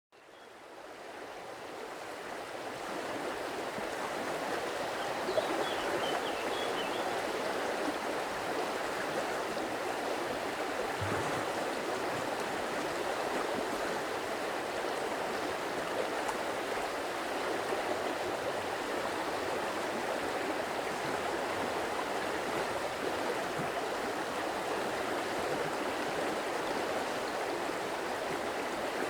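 Stream water flowing and rushing steadily, fading in from silence over the first few seconds. A few faint high chirps are heard about five seconds in.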